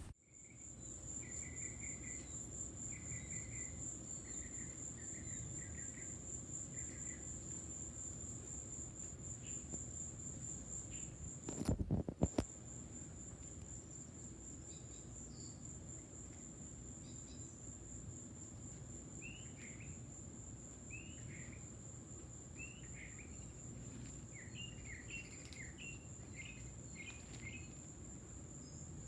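An insect trills steadily at a very high pitch throughout. Short bird chirps come in clusters early on and again later. A few loud knocks sound about twelve seconds in.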